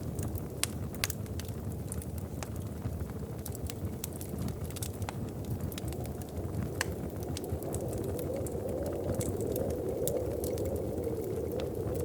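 Wood fire crackling in a fireplace: sharp pops and snaps scattered over a steady low rumble, which swells for a few seconds about eight seconds in.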